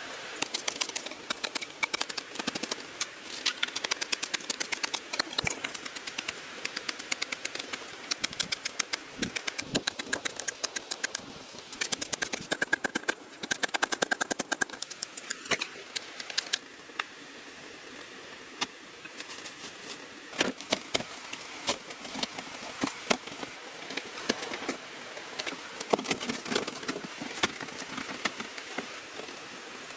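Bamboo being worked by hand: a rapid, irregular run of sharp clicks and knocks, several a second, that thins out about halfway through and then picks up again.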